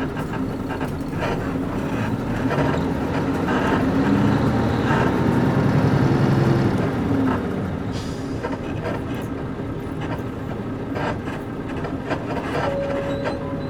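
Nissan Diesel KC-UA460LSN city bus with a PG6 diesel engine, heard from inside the cabin: the engine pulls harder as the bus accelerates, then eases off about seven and a half seconds in. After that it runs more lightly, with knocks and creaks from the leaf-spring suspension and rattles from the body.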